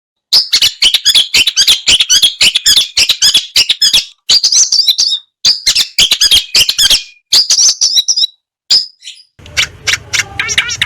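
Long-tailed shrike (cendet) singing in rapid, harsh chattering bursts broken by short gaps. About nine and a half seconds in, a different recording starts over a low hum: a fast, even trill of about seven notes a second.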